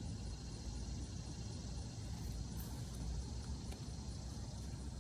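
Steady outdoor background noise: a low rumble with a faint, even high hiss above it, and no distinct events.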